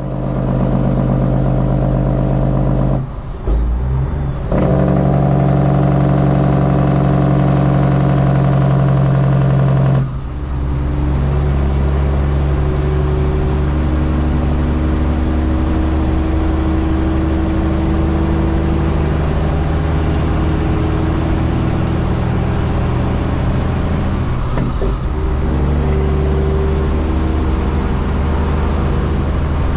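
Semi truck's 12.7-litre Detroit Diesel running under load, with a high turbo whistle. The engine note and the whistle drop away briefly about ten seconds in and again near the end, then build back up, as with gear shifts.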